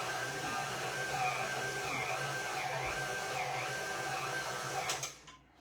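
Stand mixer running with its dough hook kneading bread dough: a steady motor hum with a repeating swish about every two-thirds of a second as the hook turns the dough. The motor stops abruptly about five seconds in.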